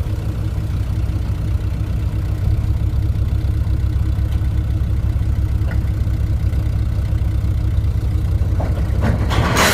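Loader tractor's engine running steadily under load while its bucket pushes a bundle of steel pipe along the trailer deck. Near the end comes a loud crash of steel as the pipe slides off the trailer.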